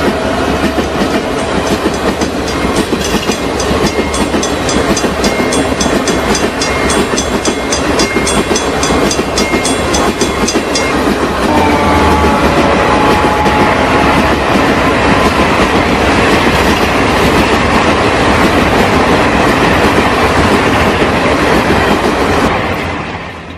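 Japanese train passing over a level crossing: a long, steady rush of wheels on rails with clatter over the joints. Over the first half a quick, steady ringing of the crossing bell sounds with it and stops about halfway; the train noise fades out near the end.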